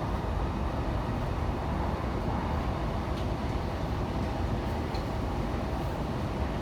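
Steady rumble of a train running on rails, heard from inside a passenger carriage.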